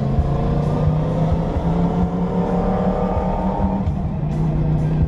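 A motor vehicle's engine rising in pitch as it accelerates for about four seconds, then easing off, over background music.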